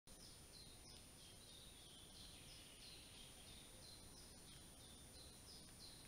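Faint forest birdsong: short high falling chirps repeated about two to three a second, over a steady hiss and a thin constant high whine from the trail camera's recording.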